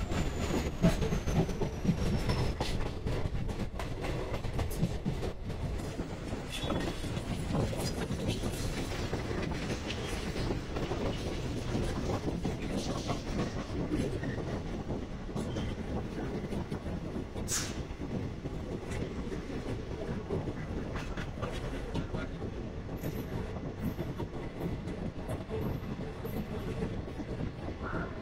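Indian Railways passenger coach running on the track, its wheels rumbling and clattering over rail joints. A faint high squeal falls in pitch over the first couple of seconds.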